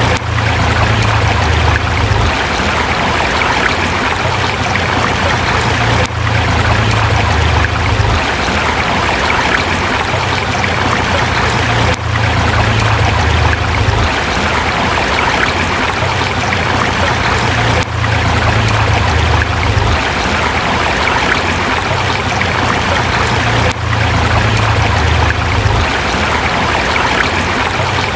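A forest river flowing over rocks, a steady rushing of water. There is a brief dip in level about every six seconds.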